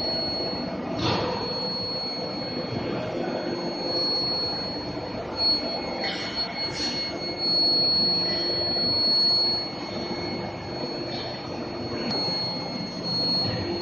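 Induction heating furnace running, giving a steady high-pitched whine over a general machine hum, with a few short hisses.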